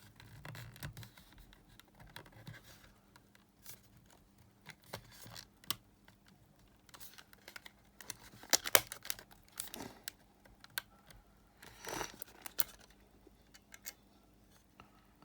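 Irregular small clicks, taps and short scrapes of hands working on a portable cassette player's parts, with louder scraping rustles about nine and twelve seconds in.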